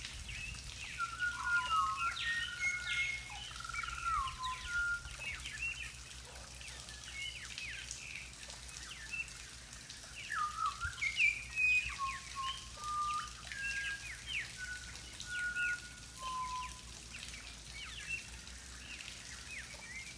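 Several birds calling: a chorus of short whistled notes, held pure tones and quick up-and-down chirps, busiest in two spells.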